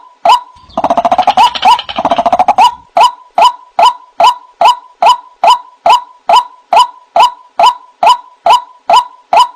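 White-breasted waterhen (ruak-ruak) calling on a lure recording: a steady series of short 'wak' notes, about two and a half a second. About a second in they break into two seconds of rapid, harsh chattering before the even series resumes.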